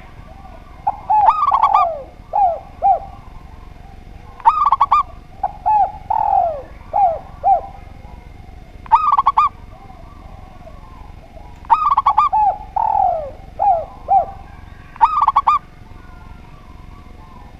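Spotted dove and zebra dove cooing back and forth: a quick cluster of high notes comes every three to four seconds, with runs of lower, falling coos between them.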